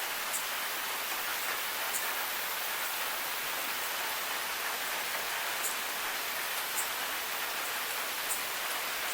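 Steady rain falling, an even hiss with a few sharp drip ticks scattered through it.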